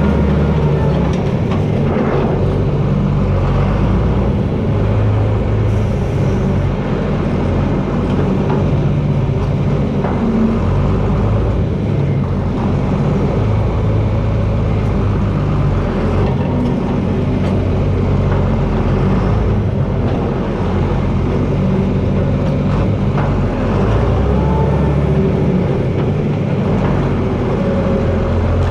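John Deere 4320 tractor's six-cylinder turbocharged diesel engine running steadily, its note rising and falling a little as it works.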